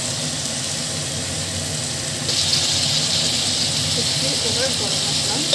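Spiced masala sizzling in a non-stick kadai as boiled eggs and potatoes are stirred with a spatula; the sizzle gets suddenly louder about two seconds in, over a steady low hum.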